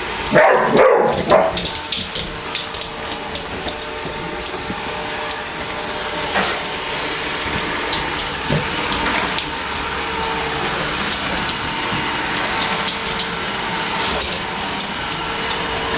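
Roomba robot vacuum running with a steady hum and frequent clicks as it moves over the floor. A boxer barks at it, loudest about a second in and in a few shorter outbursts after that.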